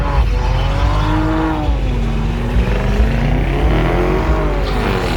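Car engines revving, their pitch rising and falling over and over above a steady low engine rumble.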